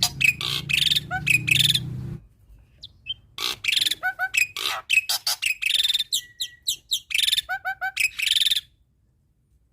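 Black-winged myna (jalak putih) singing a rapid run of harsh chattering notes mixed with sharp whistles. It pauses about two seconds in and holds a steady whistle near the middle, then falls silent about a second before the end. A low hum sits under the first two seconds.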